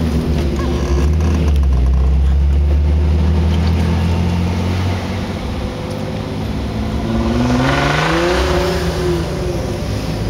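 Car engine heard from inside the cabin while driving: a steady low drone, then about seven seconds in it revs up and its pitch falls back again.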